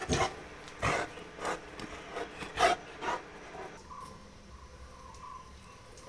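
A run of about seven short, rough scraping noises at irregular spacing, loudest about two and a half seconds in, stopping near the two-thirds mark and leaving a faint steady hum.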